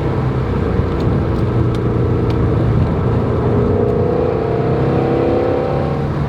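Ford Mustang Shelby GT350R's 5.2-litre flat-plane-crank V8 running under way. Its pitch climbs over the last couple of seconds as it accelerates.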